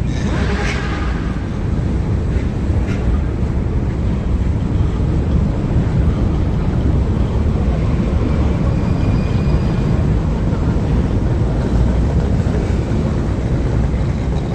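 Car engines running with a steady, loud low exhaust rumble.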